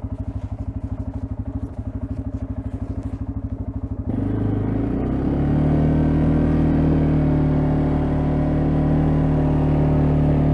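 CFMoto CForce ATV engine running at low revs with a fast, even pulse. About four seconds in it revs up sharply and then holds a louder, steady higher note as the ATV drives and plows snow.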